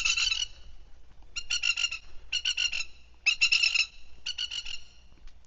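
Plovers giving loud rattling alarm calls in short bursts of rapid notes, about one burst a second, five times: the birds defending their nearby chicks against an intruder.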